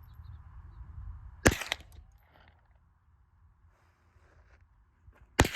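Two gunshots about four seconds apart, sharp cracks at a shooting range, the first followed closely by a fainter second crack.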